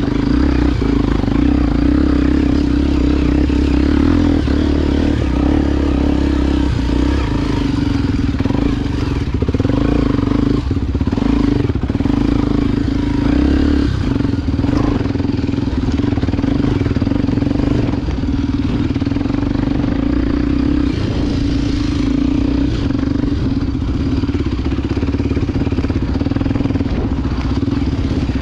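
Honda XR Tornado single-cylinder four-stroke engine, bored out to 293 cc, running steadily as the bike is ridden, with the throttle easing and picking up a few times. Sharp knocks and clatter come through around the middle.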